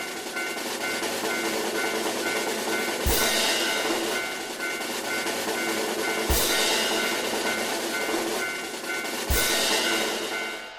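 Train running past: a steady rumbling clatter with a heavier thump about every three seconds.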